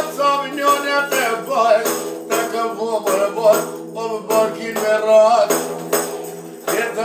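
Folk song: a voice singing with wavering, ornamented pitch over a steady drone, with repeated tambourine-like percussion strokes.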